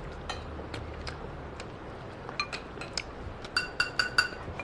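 Eating utensils clinking against bowls at the table: scattered light clicks, then a quick run of ringing clinks near the end.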